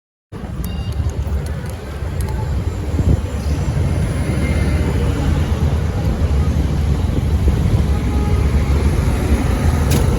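City street traffic heard from a moving bicycle, under a heavy, fluctuating low rumble of wind buffeting the microphone.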